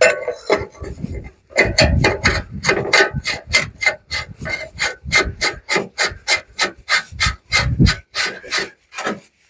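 Rapid, even rubbing or scraping strokes, about three to four a second, that start about a second and a half in and run on until just before the end.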